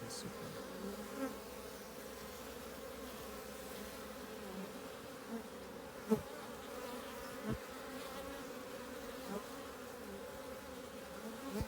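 Honeybees buzzing steadily at sugar syrup, with single bees now and then flying close past in short rising and falling buzzes. A brief sharp click about six seconds in.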